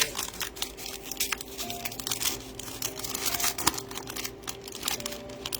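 Trading-card pack wrappers crinkling and tearing as blaster packs are opened and the cards handled: a quick, irregular run of crackles.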